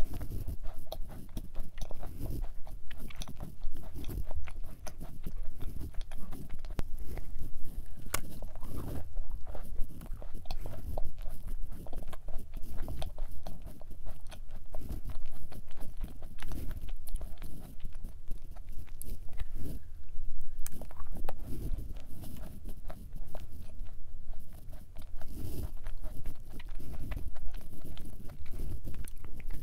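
Close-up chewing of a thick chocolate chip cookie: continuous irregular mouth sounds with many small crunchy clicks.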